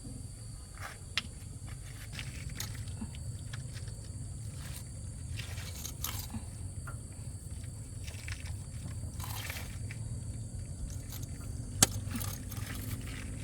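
Intermittent scraping and scattered clicks, with one sharp click about 12 seconds in, over a steady low hum and a steady high whine.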